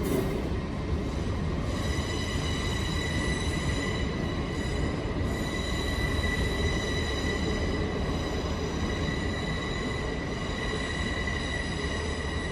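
Train at the platform: a low rumble, joined about two seconds in by a steady high-pitched whine that holds the same pitch throughout.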